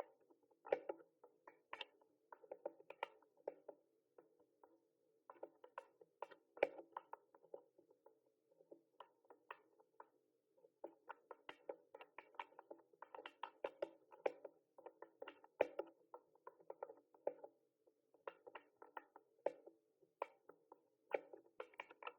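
Mechanical keyboard typing: quick runs of key clicks in uneven bursts, broken by short pauses.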